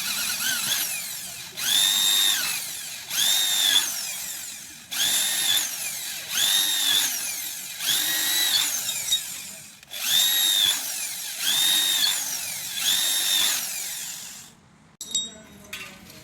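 Electric hand drill run in about nine short bursts, each spinning up, holding and winding down, as the cut aluminium partition sections are joined.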